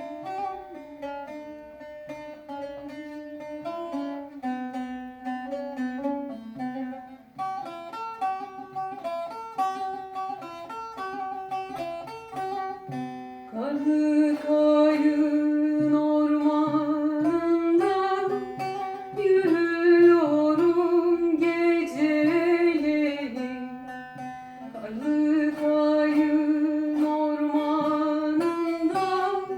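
Bağlama playing a plucked melody alone, joined about halfway through by a voice singing a slow, held tune over it.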